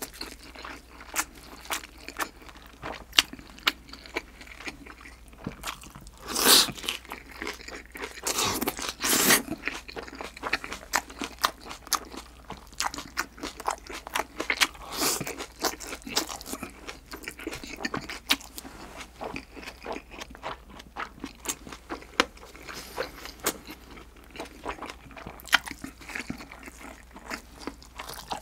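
Close-miked chewing and crunching: a person eating thin-sliced pork belly with spicy green onion salad, with many small wet mouth clicks and a few louder bursts between about six and ten seconds in and again near the middle.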